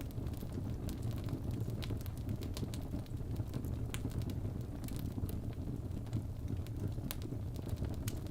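Birch logs burning in a fireplace: a steady low rumble of flames with frequent, irregular sharp crackles and pops.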